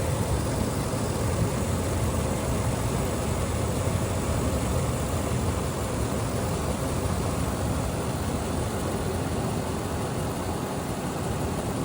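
2006 Toyota Land Cruiser engine idling steadily after a cold start.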